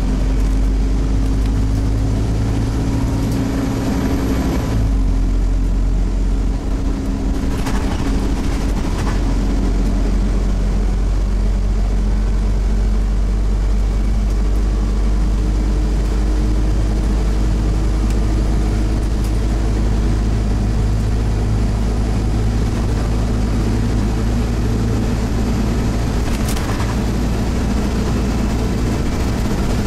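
Scania CN270UB OmniCity bus's nine-litre five-cylinder diesel engine running hard under load, heard from on board. The engine note shifts about five seconds in, and a few brief rattles come through near the start and near the end.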